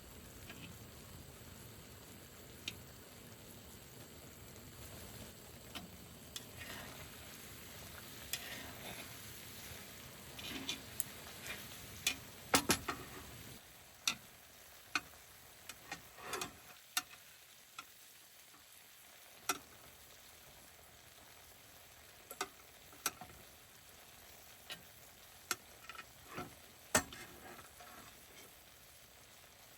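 Food sizzling in a pan, with sharp clinks and taps of utensils stirring. The sizzle dies down about halfway through, leaving scattered clicks and knocks.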